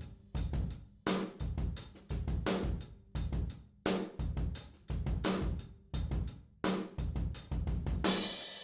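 Acoustic drum kit playing a steady groove of kick drum, snare and hi-hat, about two strong hits a second. A cymbal crash rings out about eight seconds in.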